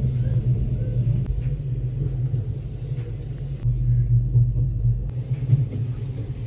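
Steady low rumble of a mountain railway train on the Bernina line, heard from inside the carriage: the running noise of the wheels on the track. Its tone changes abruptly about a second in and again near four and five seconds in.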